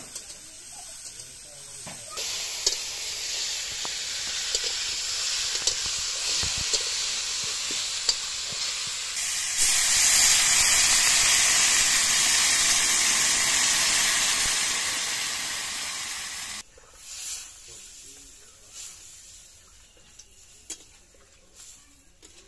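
Cauliflower frying in oil in a wok, with a steady sizzle and ladle stirring. About ten seconds in, water is poured into the hot pan and it hisses loudly with steam, then slowly dies down before cutting off suddenly, leaving only light clinks of the ladle.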